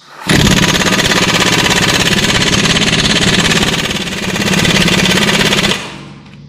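Impact wrench hammering on the crankshaft bolt that holds the harmonic balancer of a 6.0L LS engine: a loud, rapid, steady rattle lasting about five and a half seconds. The bolt is too tight for the light-duty impact wrench.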